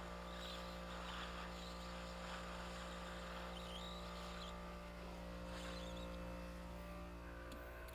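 A nitrogen plastic welder with a built-in nitrogen generator running: a steady, faint hum with a light hiss.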